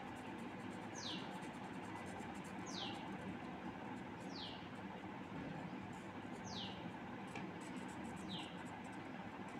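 A bird calling five times, each call a short high whistle falling quickly in pitch, spaced about one and a half to two seconds apart, over a steady background hiss.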